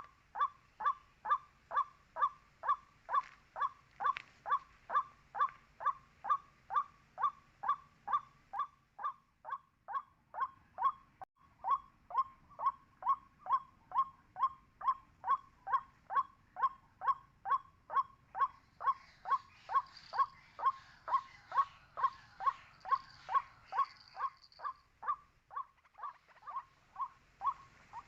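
White-breasted waterhen calling 'kwak' over and over in a steady rhythm, about two calls a second, each a short note that falls in pitch.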